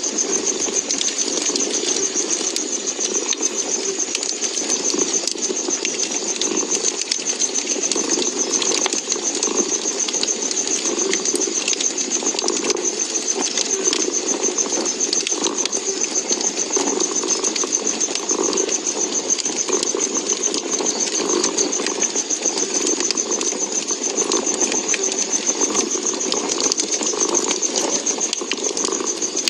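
A cat purring steadily in a low, pulsing drone, mixed with the scattered small crackles and pops of a wood fire. Under both runs a steady high hiss.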